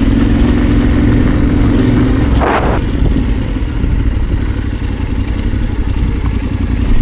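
Motorcycle engine running under way, loud and steady, with a brief rush of noise about two and a half seconds in.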